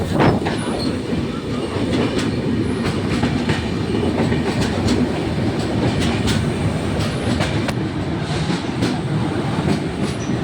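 Train running along the track: a steady low rumble with scattered sharp clicks of the wheels over the rails.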